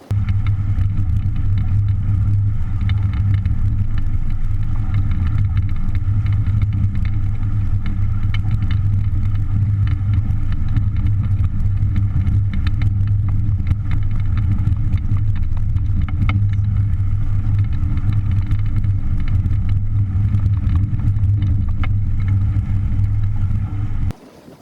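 A motor running at a steady speed. It cuts in abruptly and stops suddenly just before the end.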